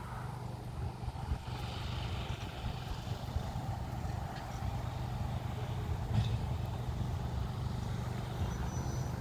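Sugar cane train's diesel locomotive running steadily, a low engine drone with a few light knocks.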